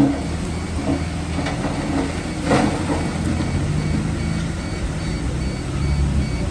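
Heavy diesel earthmoving machinery running with a steady low rumble, broken by several metal clanks, the loudest about two and a half seconds in.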